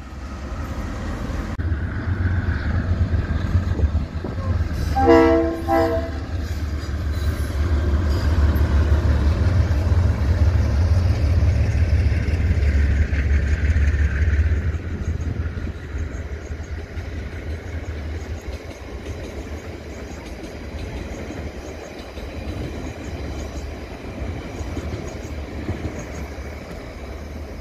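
A diesel locomotive runs past hauling passenger carriages, its engine a heavy low rumble that builds and then fades as the carriages roll by. About five seconds in, the locomotive's horn sounds briefly, in two short blasts.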